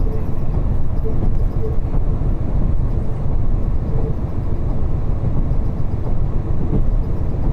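Diesel railcar running along the line, heard from inside the passenger cabin: a steady, loud low rumble of engine and wheels on the rails.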